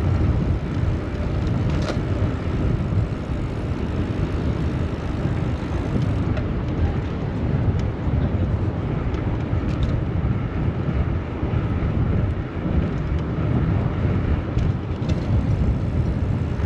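Steady low rumble of city street traffic heard from a moving bicycle, with a few faint ticks.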